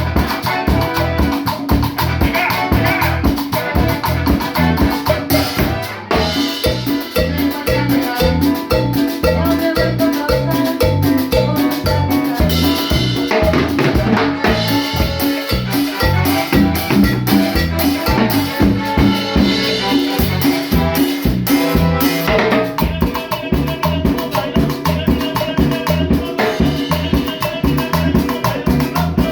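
Cumbia band playing kumbia lagunera: a busy instrumental passage over a steady, driving drum beat.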